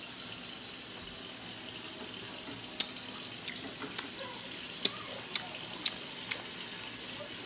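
Wet mouth clicks of someone chewing a rubbery piece of cooked octopus tentacle, six or so sharp clicks about three to six seconds in, over a steady hiss.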